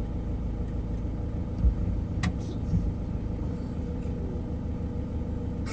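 A vehicle's steady low engine rumble, with two dull thumps and a sharp click about two seconds in.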